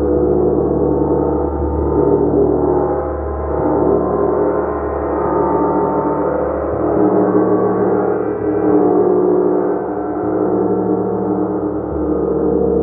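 Gong played continuously, a sustained wash of many overlapping ringing tones that swells and eases about every two seconds.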